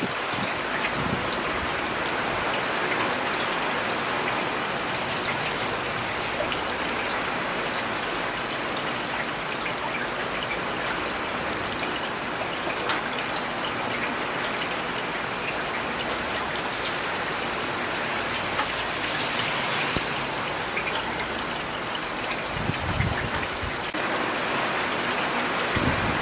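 Steady rain falling, an even hiss of drops with no let-up. A brief low thump comes near the end.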